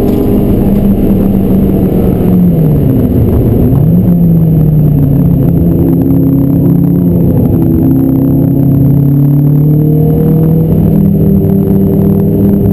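Renault Clio 172's 2.0-litre four-cylinder engine under track driving, heard from inside the cabin. About two seconds in the engine note falls, then jumps back up sharply, as on a downshift. It stays lower through the corner and climbs again near the end as the car accelerates.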